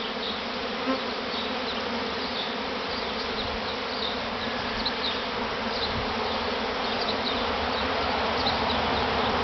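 A large honeybee swarm in flight all around, a dense steady buzz of many wings, growing a little louder toward the end. The swarm is arriving to move into a new hive box.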